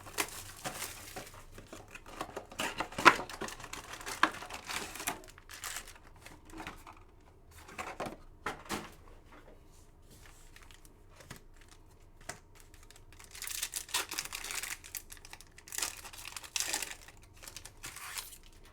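Foil wrappers of trading card packs crinkling and tearing as the packs are ripped open by hand, in irregular rustling bursts with short pauses between them.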